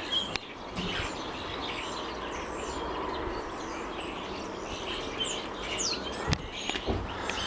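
Many small garden birds chirping and twittering, short quick calls overlapping one another over a steady background noise, with a sharp click about six seconds in.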